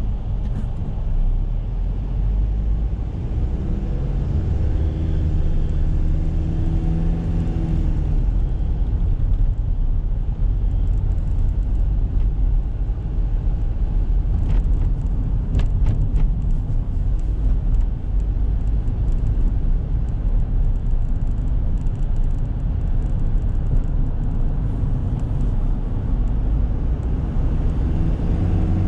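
Toyota Granvia's 1KZ-TE 3.0-litre turbo diesel running under way, with steady tyre and road noise, heard from inside the cabin. Its pitched engine note stands out for a few seconds and fades about eight seconds in; a few short knocks come about a quarter of a minute in.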